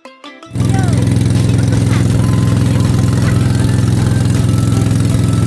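Motorboat engine running loud and steady at an even speed. A plucked-string music track cuts off just before the engine sound starts, about half a second in.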